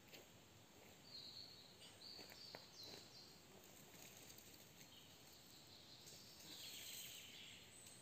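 Near silence, with a few faint, short, high bird chirps at intervals over a quiet background hiss.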